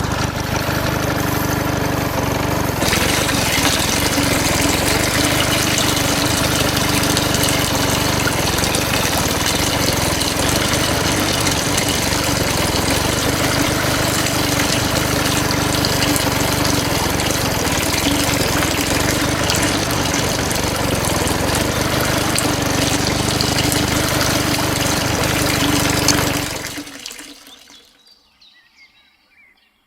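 Small motor-driven toy water pump running steadily with water gushing and splashing, then winding down and stopping about 27 seconds in.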